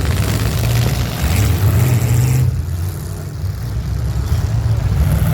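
Derby vehicle engines running and revving, a rough low rumble that swells and eases. A hissy noise over them drops away about halfway through.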